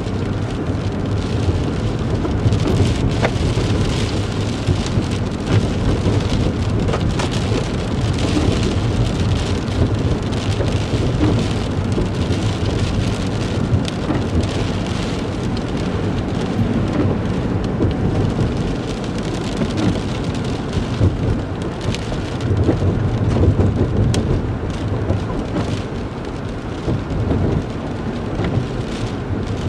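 A car being driven along a road: a steady low rumble of tyres and engine, with scattered sharp ticks and taps all through.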